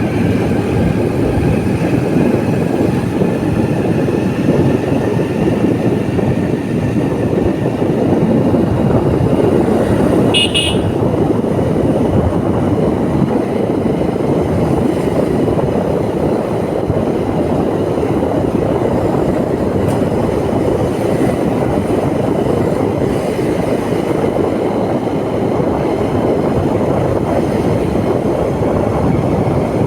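Steady engine and road noise of a moving motorbike, with one short horn toot about ten seconds in.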